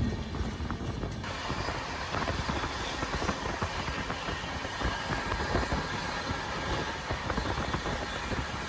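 Passenger train running at speed, heard from an open coach doorway: a steady rushing rumble with many small irregular clicks from the wheels on the track. About a second in, the hiss grows brighter.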